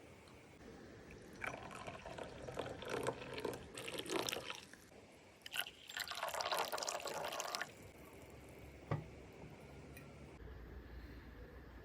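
Water being poured into a vessel in two spells, the second a steady filling stream, then a single knock.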